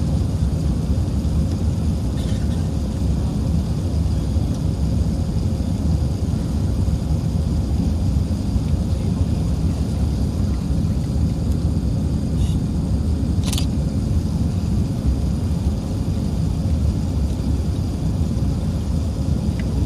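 Steady low rumble inside the cabin of an Airbus A380-861 in flight, the noise of its Engine Alliance GP7200 engines and the airflow, with a faint click about 13 seconds in.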